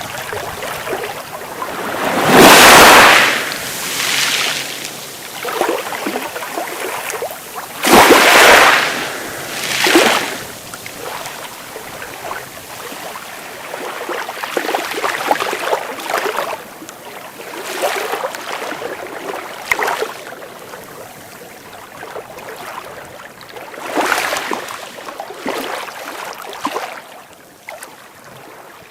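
Persian Gulf surf breaking and washing ashore in repeated swells, the loudest breaks about two and a half and eight seconds in.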